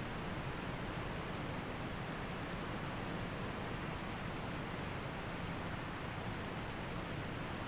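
Waterfall rushing steadily: a constant, even sound of falling water.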